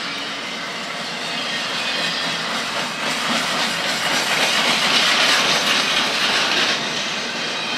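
Double-stack intermodal well cars of a freight train rolling past, a steady rush of steel wheels on rail. It swells into a louder hiss from about four to seven seconds in.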